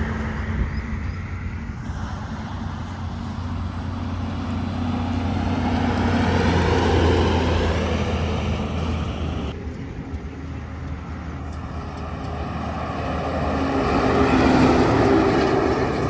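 Heavy Tata diesel trucks driving past on a highway: a low engine drone with tyre and road noise, building up and fading away as one truck passes, then again as another passes near the end.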